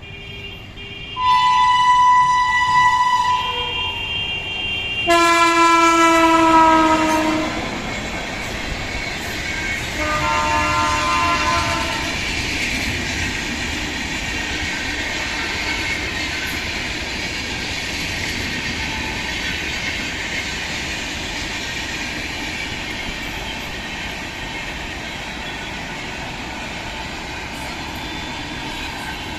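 Jan Shatabdi Express train horn blowing three times: a two-note blast about a second in, a louder blast about five seconds in whose pitch drops as it ends, and a shorter blast about ten seconds in. After that comes the steady rumble and clickety-clack of the train running on the rails.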